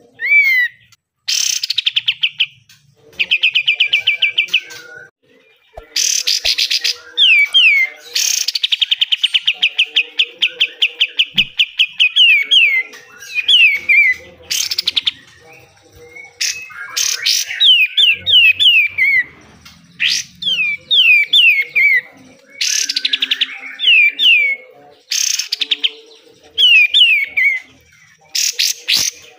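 Golden-bellied gerygone (kapas tembak) singing in repeated phrases: fast rattling trills alternate with runs of thin, quickly falling whistles, with short pauses between phrases.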